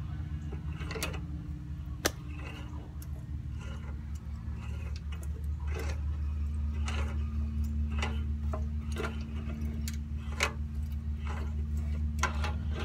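Channel-lock pliers gripping and turning a stuck stud, giving irregular metallic clicks and knocks over a steady low hum.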